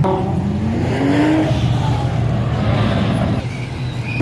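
A car engine accelerating, its pitch rising over about the first second and a half, with the steady sound of other running engines around it.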